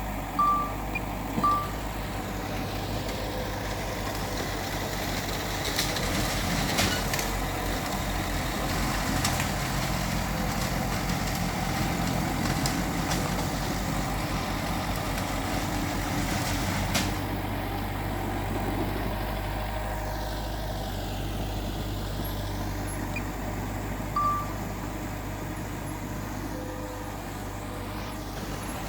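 Diesel engines of a bulldozer and dump trucks running steadily, with short high beeps twice at the start and once near the end, and a few sharp knocks along the way.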